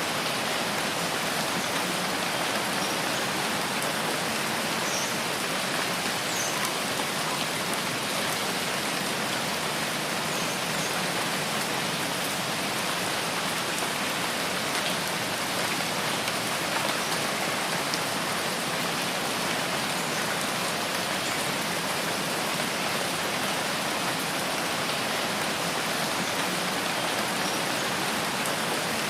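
Rain falling steadily in a rainforest, an even hiss of countless drops with no letup, and a few faint, short high chirps here and there.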